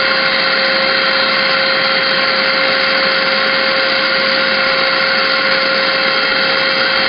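Small Hoover vacuum cleaner's electric motor running steadily at full speed, a loud even whir with a constant whine.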